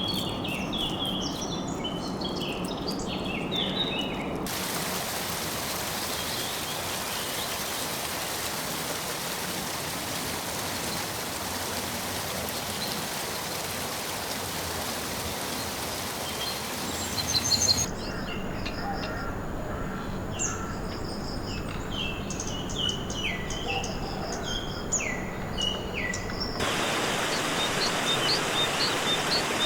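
Rainforest ambience in abrupt sections: several birds calling with quick falling whistled notes, then a long stretch of steady hiss, then bird calls again, and near the end a hiss with a fast run of high repeated chirps.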